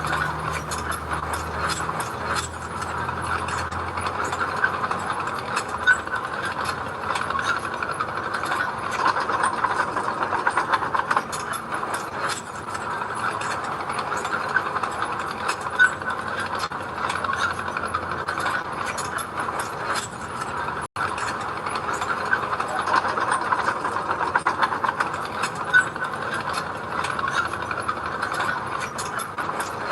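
Heavy earthmoving machinery running steadily, its engine going under a dense metallic clatter and rattle.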